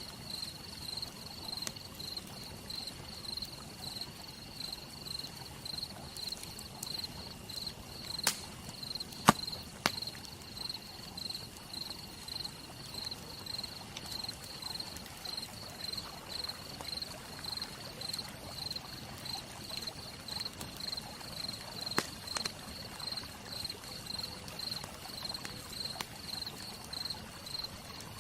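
A campfire crackling with a few sharp pops, the loudest about nine seconds in, over a soft steady hiss. A cricket chirps steadily throughout at about two chirps a second.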